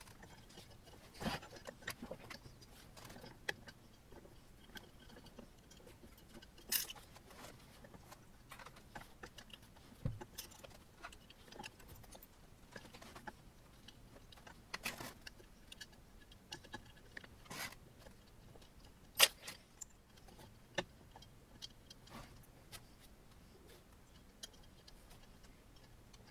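Scattered clicks and light knocks of small metal parts and hand tools being handled while a 3D printer kit is assembled, at irregular intervals, with one sharper click about two-thirds of the way through.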